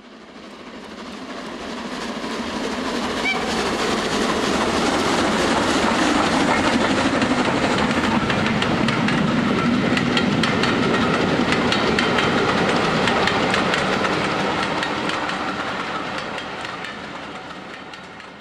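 A train running past, its wheels clicking over rail joints. The sound swells over the first few seconds, holds steady, then fades away near the end.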